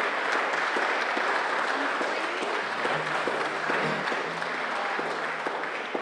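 Audience applauding steadily after a song, with a few faint low instrument notes held underneath.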